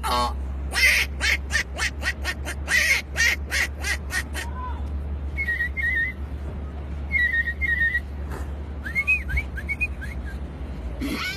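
A person imitating animal calls with the voice: a fast run of short quack-like sounds for the first few seconds, then short whistled bird-like chirps in small groups.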